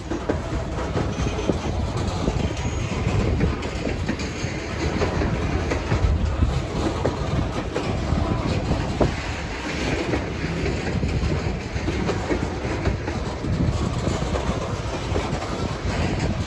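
Freight train of open-top gondola cars rolling past close by: a steady rumble of steel wheels on rail, with repeated clicks as wheel sets pass over rail joints.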